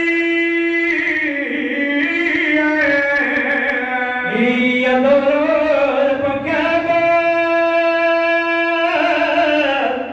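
Voice singing a noha, the Shia mourning lament, unaccompanied, in long held notes that slide between pitches, with one rising glide about four seconds in and a long steady note held a few seconds later.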